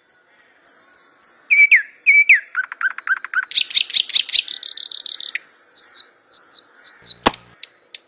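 Birdsong: several birds chirping, trilling and whistling in quick, varied phrases, with one sharp click about seven seconds in.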